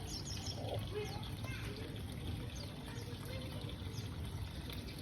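Budgerigars chattering: many short, overlapping rising and falling chirps and warbles, over a steady low hum.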